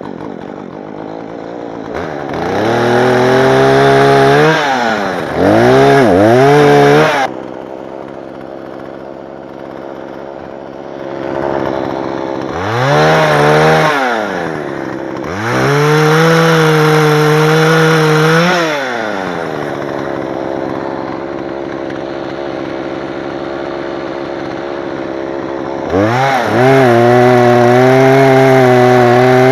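Two-stroke chainsaw revved hard several times, its pitch sagging and recovering as if bogging into wood, with quieter idling spells in between. It is held at steady high revs near the end.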